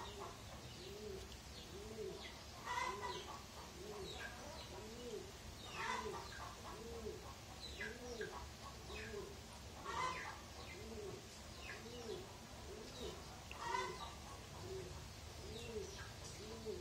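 A bird calling over and over: a low note that rises and falls, repeated about twice a second, with short louder sounds every three to four seconds.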